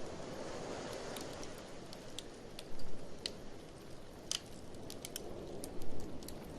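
Wood fire crackling in a fireplace, with scattered sharp pops, over a steady low rush of blizzard wind that swells louder twice.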